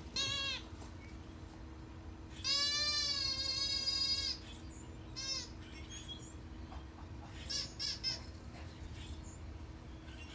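A squeaky dog toy squeaked repeatedly: a short squeak at the start, a long drawn-out squeak of nearly two seconds, then several short squeaks.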